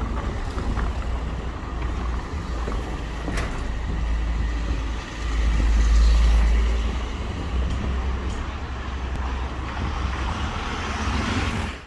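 Outdoor city street noise dominated by a deep, steady rumble, with traffic and wind on the microphone mixed together, swelling louder about five to seven seconds in.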